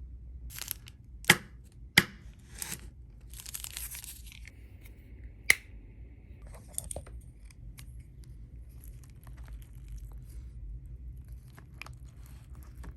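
Food packaging being torn open and crinkled, with sharp clicks, the loudest about five and a half seconds in, then fainter rustling.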